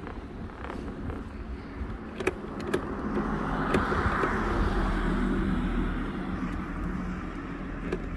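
A car passing by: the rush of its tyres and engine swells to a peak about four seconds in, then slowly fades. A few sharp clicks come before and at the peak.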